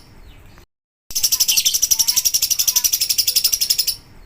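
Lovebird singing its long 'ngekek' song: a fast, unbroken chattering trill of about a dozen high notes a second. It starts about a second in after a brief silent gap and stops abruptly near the end.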